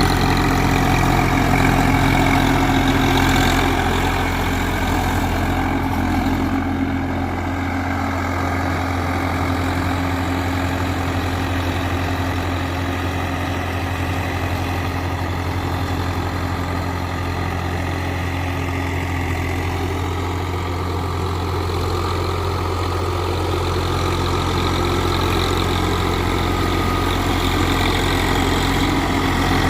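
Swaraj 744 FE tractor's three-cylinder diesel engine running steadily, easing off slightly for a while in the middle and picking up again near the end.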